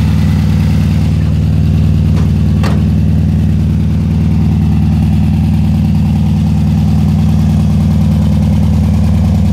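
1966 Volkswagen Beetle's air-cooled flat-four engine idling steadily with the engine lid open.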